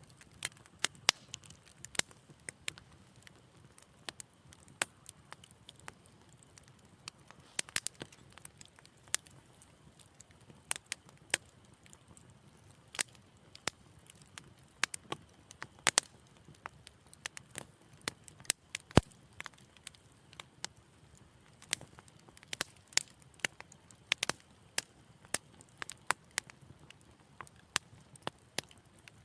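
Wood fire in a fireplace crackling: irregular sharp pops and snaps, several every second, over a faint low rumble of the flames.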